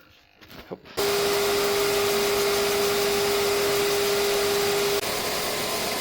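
Electric power sander switched on about a second in, its motor running steadily with a hum for a repaired bumper edge; about a second before the end the hum drops away and the running noise gets slightly quieter.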